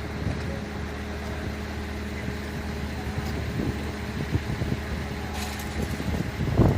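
A fire truck's engine idling with a steady low hum, with a few louder low thumps near the end.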